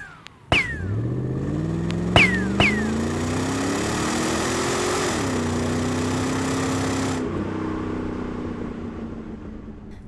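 Car engine revving hard as the car pulls away, its pitch climbing, then dropping at a gear change about five seconds in, then running steadily and fading. In the first three seconds, three sharp gunshots, each with a short falling ricochet whine.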